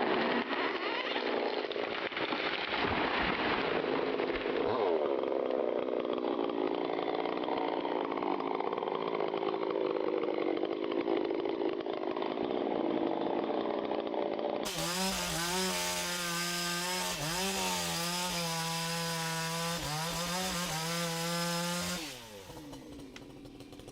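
Chainsaw running and cutting into wood, its engine pitch rising and falling under load. About fifteen seconds in a louder, clearer stretch of the saw revving begins, and it cuts off a couple of seconds before the end.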